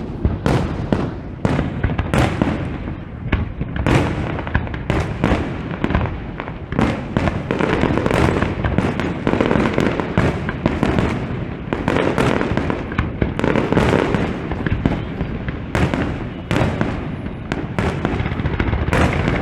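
Fireworks display going off: a dense, irregular run of shell bursts and crackling, several sharp bangs a second over a continuous low rumble.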